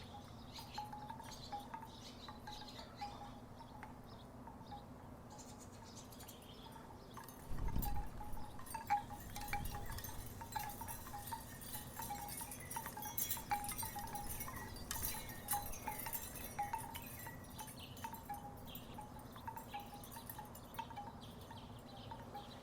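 Wooden tiki wind chimes knocking together in the breeze, a scattering of short hollow clonks. About eight seconds in a low rumble comes in, and the chimes knock faster and louder for several seconds before they settle back to occasional clonks.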